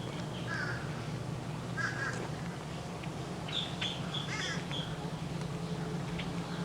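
Birds calling: three short harsh, caw-like calls, with smaller high chirps between them.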